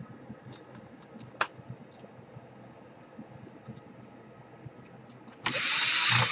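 Light clicks of small laptop parts and screws being handled, then near the end a powered screwdriver runs briefly, driving a screw.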